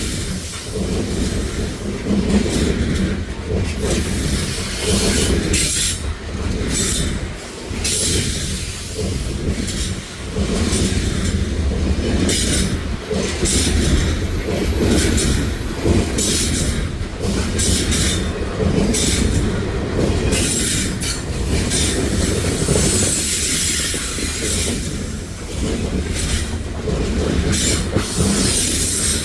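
CP coal train's cars rolling past with a steady low rumble and wheels clattering over the rail joints, broken by repeated short high-pitched wheel squeals.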